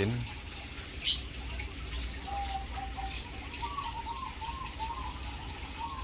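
Caged red siskins chirping: a few short, sharp, high chirps, and from about two seconds in a quick run of short, lower whistled notes, over a steady low hum.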